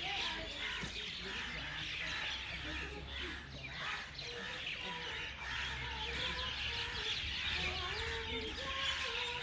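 Many birds chirping and twittering at once in a dense, steady chorus.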